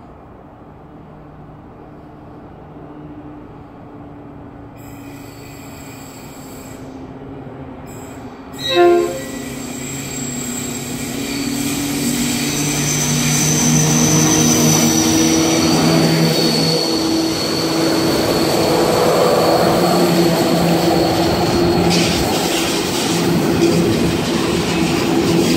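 A Pacific National 82 class diesel-electric locomotive approaches with a freight train of hopper wagons, its engine drone growing louder. About nine seconds in it sounds one short horn blast. The locomotive then passes close by and the wagons roll past with steady wheel-on-rail noise and a thin, high wheel squeal.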